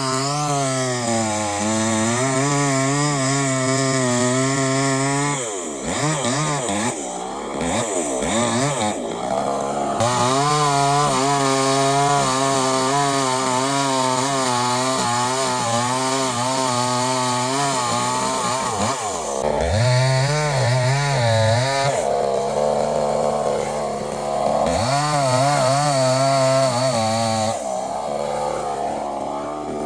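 Two-stroke chainsaw running at high revs, its pitch wavering as the chain cuts into wood. Twice the revs drop away and climb back.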